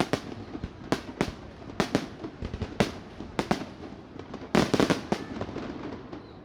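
Aerial fireworks bursting in a rapid series of sharp bangs, with a dense cluster of bangs about four and a half to five seconds in, then dying away.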